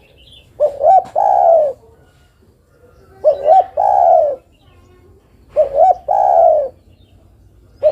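Spotted dove (derkuku) cooing, a female's call to a male: three phrases about two and a half seconds apart, each two quick notes then a longer drawn-out coo, with a fourth beginning at the very end.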